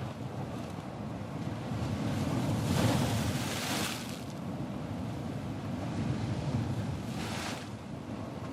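Ocean surf: a steady low rumble of water with waves breaking and washing in, the loudest wash about two and a half seconds in and a smaller one about seven seconds in.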